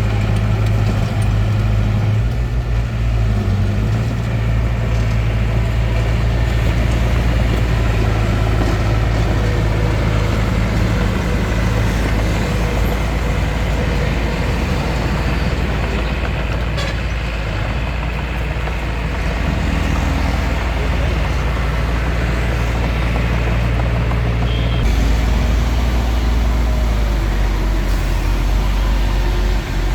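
Bulldozer's diesel engine running steadily under work, its engine note shifting as the load changes a few times.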